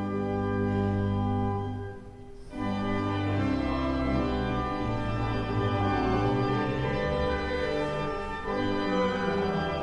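Organ playing held chords, with a short break about two seconds in before the chords resume.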